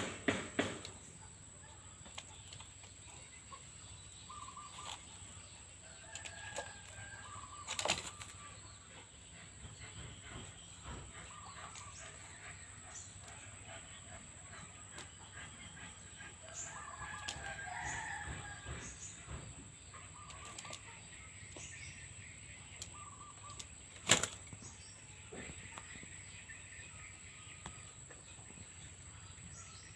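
Bird wings flapping sharply, once about a quarter of the way in and again about 24 seconds in, with faint short bird calls scattered in between.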